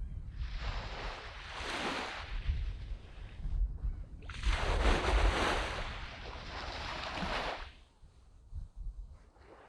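Sea waves breaking and washing up a sandy beach, two surges that swell and fade, the second longer, then quieter near the end. Wind buffets the microphone with a gusty low rumble underneath.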